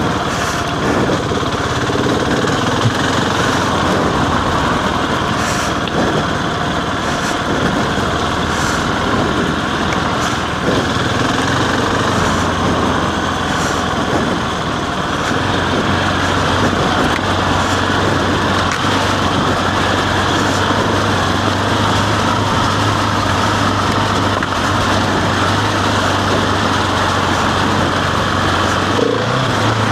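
Husqvarna 701 single-cylinder motorcycle engine running steadily under way, with a continuous low drone that grows stronger about halfway through.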